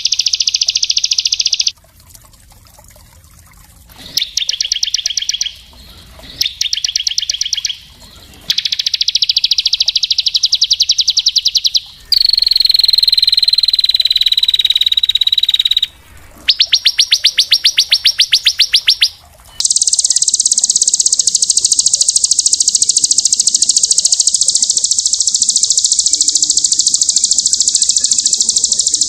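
Small songbird's very fast, high-pitched trills in abrupt, spliced bursts, a birdsong-training (masteran) recording. A held, slightly falling whistle comes near the middle, and a long unbroken high trill takes over for the last third.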